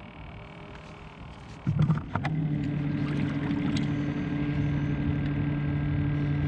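A few knocks and clicks, then about two seconds in a small boat motor starts and runs on with a steady hum.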